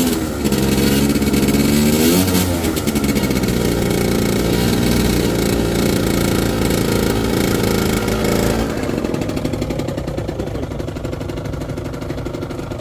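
Gilera DNA scooter engine revving, its pitch swinging up and down at first, then holding a steady high note before dropping back to a lower, quieter note about nine seconds in. It is running on a carburettor whose idle and air screws have just been adjusted by feel, and the revs no longer dip.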